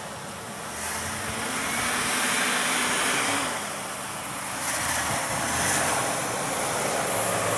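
Sears Craftsman two-stage snowblower running steadily with a rushing hiss of thrown snow. The hiss swells about a second in and again midway through.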